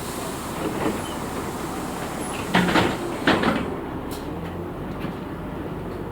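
Inside a LiAZ 6213.65 articulated diesel bus: steady running noise in the cabin, with two short loud hissing bursts about two and a half and three and a half seconds in.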